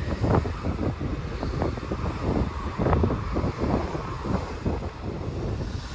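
Gusty wind buffeting the microphone: an uneven low rumble that surges and drops in irregular gusts.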